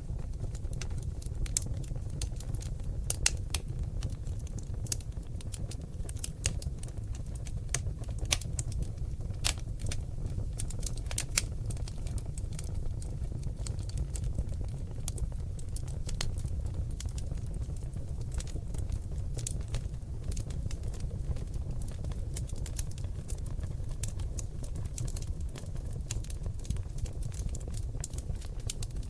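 Seasoned oak logs burning in a fireplace, crackling with many sharp, irregular pops over a steady low rumble of the fire.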